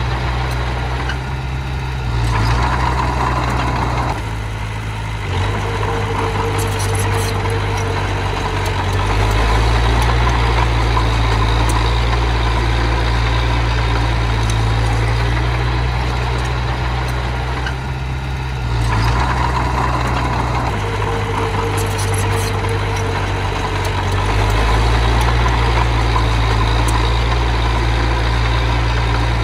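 A miniature bulldozer's engine running steadily, with its note and loudness shifting several times as the load on it changes.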